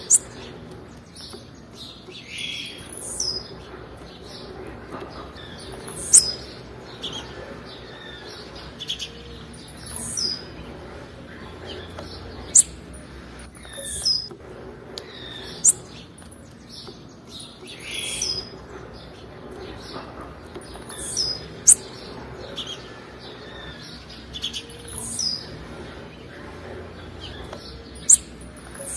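Female blue-black grassquit (tiziu) calling: short high chirps that fall in pitch, repeated about every two seconds, some with a sharp clicky onset.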